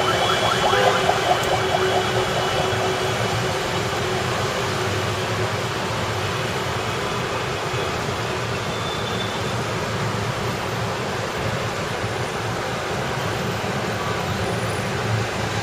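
Steady heavy rain hiss mixed with passing street traffic; a vehicle's pitched engine hum fades out in the first couple of seconds.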